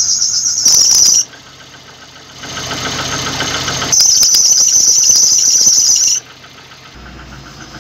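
VAZ-2115 alternator belt squealing, high-pitched and steady, in two bouts: one that stops about a second in and another from about four to six seconds in, with engine noise between them. The belt is slipping under the load of the headlights and heater fan; the owner puts it down to a weak alternator that cannot carry all the electrical load.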